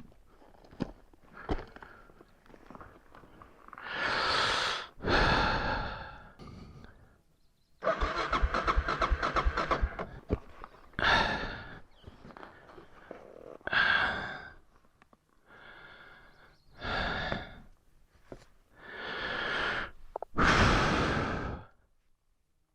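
A person breathing hard in long, heavy breaths and sighs, about a second or two each, spaced through the stretch. In the middle comes a rapid rattle lasting about two seconds.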